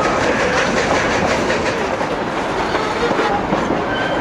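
Durango & Silverton narrow gauge passenger train running along the track, heard from aboard: a steady noise of wheels on the rails and the moving cars.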